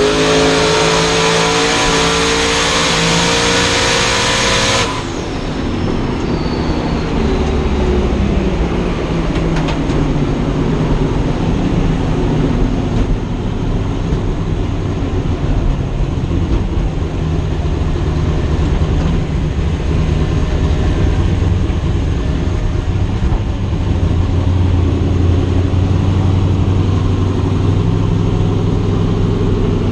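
Drag race car engine at full throttle, its pitch climbing steadily for about five seconds before it cuts off suddenly. It is followed by a lower, steady engine running.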